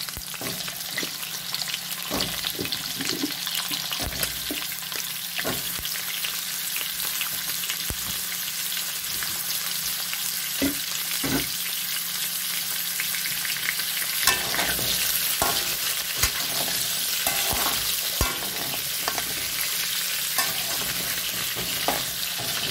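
Oil sizzling steadily under carrot and potato chunks frying in an aluminium wok, with scattered knocks and scrapes as potato pieces are dropped in and a metal skimmer moves against the pan.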